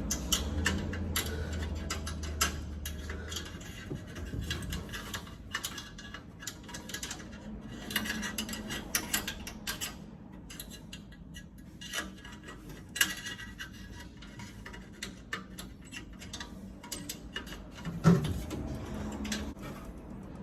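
Scattered metal clicks, taps and clinks of hands and tools working on gas furnace parts as a cleaned thermocouple is refitted, with a louder knock near the end. A low hum runs under the first few seconds.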